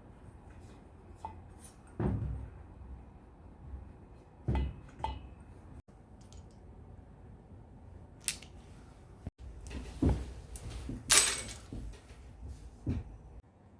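Scattered metallic clinks and knocks of tools and engine parts being handled on a workbench during an engine overhaul, about seven separate strikes, the loudest about eleven seconds in.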